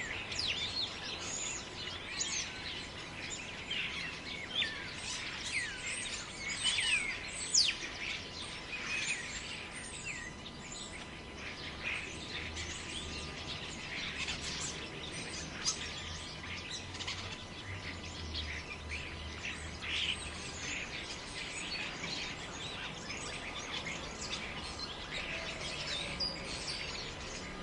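Many birds chirping and calling at once in a dense, overlapping chorus of short high chirps and sweeps, busiest in the first half, over a steady background hiss. A low rumble, in keeping with wind, sits underneath in the middle of the stretch.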